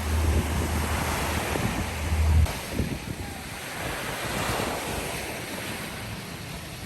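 Wind buffeting the microphone in a heavy low rumble that cuts off suddenly about two and a half seconds in, over a steady wash of sea waves.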